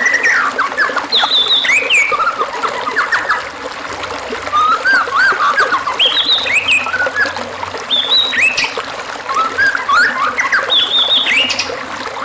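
A songbird singing quick, varied runs of whistled notes that slide up and down, a new run every few seconds. It is a masteran recording, played to white-rumped shamas so they learn and copy the song.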